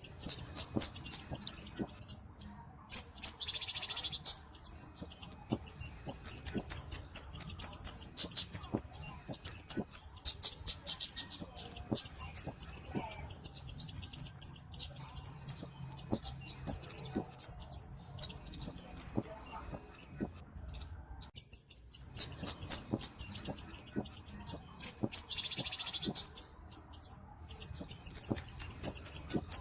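Flowerpecker (cabe-cabean) calling: rapid runs of very high, thin ticking chirps lasting several seconds each, with short pauses between runs.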